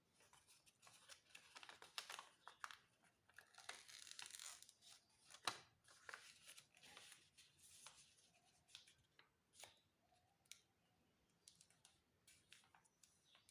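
Paper being folded and creased by hand for an origami flapping bird: crisp rustles and crinkles, busiest in the first half with one sharp crackle near the middle, then sparser small rustles and taps.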